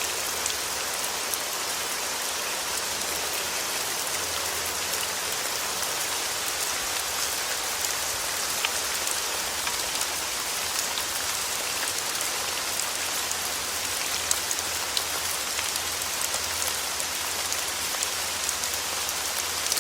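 Steady rain falling on a surface: a dense, even hiss sprinkled with many small drop ticks.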